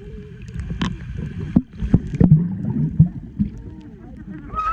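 Water splashing and sloshing close by as a small child kicks and paddles while learning to swim, with several sharp splashes over a steady low rumble.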